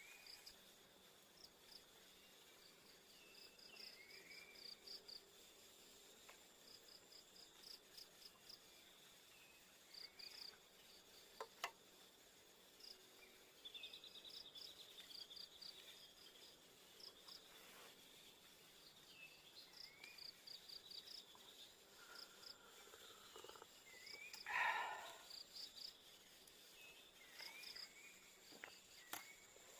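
Faint chorus of crickets in the pine forest: short pulsed chirps repeating over and over, with scattered short gliding bird calls and one louder call about 25 seconds in.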